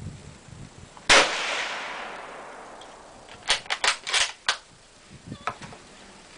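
A single shot from a Yugoslavian Mauser bolt-action rifle in 8mm Mauser (7.92×57mm), with a long echoing decay. About two seconds later comes a quick run of about five sharp metallic clicks: the bolt being worked to eject the case and chamber the next round.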